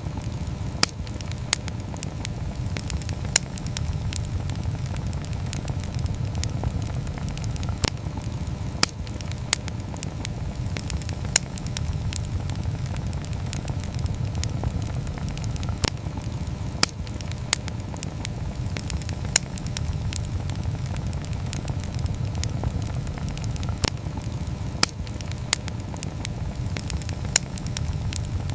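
Wood campfire crackling, with sharp pops at irregular intervals over a steady low rush.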